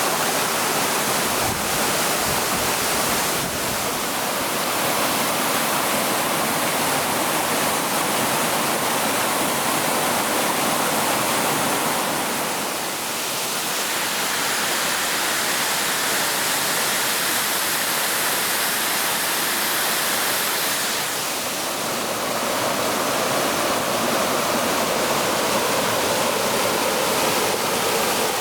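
Hongryu Falls waterfall pouring, a loud steady rush of falling water.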